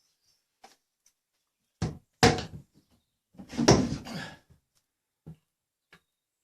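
Knocks and thuds of workshop handling: two sharp knocks about two seconds in, then a longer rattling clatter a second later, with a few small clicks.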